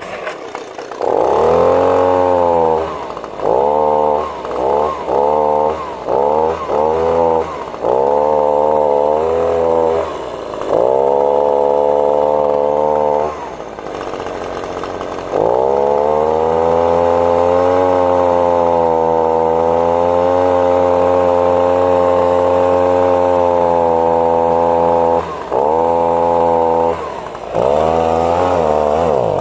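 Echo leaf blower's small two-stroke engine test-running on a freshly fitted replacement carburetor: the throttle is blipped over and over, the engine speed rising and falling, then held at high speed for about ten seconds, with two quick drops near the end.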